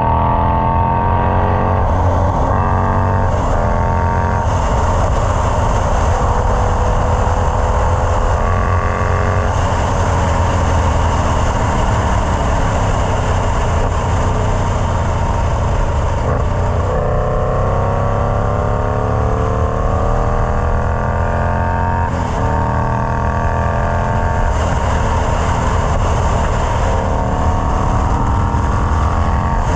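Indian Scout Bobber's V-twin running through a Freedom Performance Combat 2-into-1 exhaust. Engine speed rises and drops back several times.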